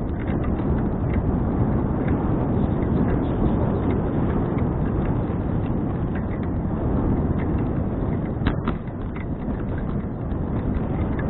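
Riding a 2012 Fuji Touring bicycle: wind rushing over the action camera's microphone and the rumble of tyres on the road, with scattered small rattling clicks. About three-quarters of the way through there is a sharper double click.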